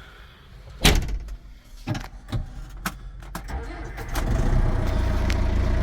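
A few knocks and clicks, then the Case 895 XL tractor's diesel engine starts about four seconds in and settles into a steady idle, running smoothly.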